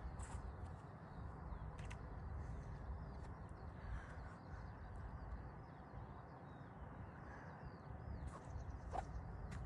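Small birds chirping faintly over a steady low rumble, with a single small knock near the end.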